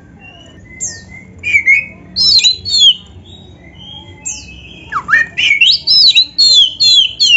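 Oriental magpie-robin (kacer) singing in its loud, fighting-mode song: quick whistled phrases that glide up and down, in two bursts, the second starting about five seconds in.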